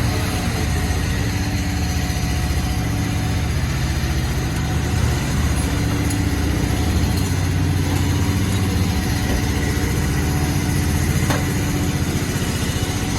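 A vehicle engine idling steadily with an even, unchanging low rumble.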